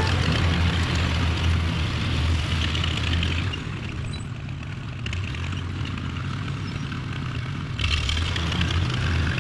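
Farmall A tractor's four-cylinder engine running with the finish mower engaged, a steady low hum that eases off about halfway through and comes back louder near the end.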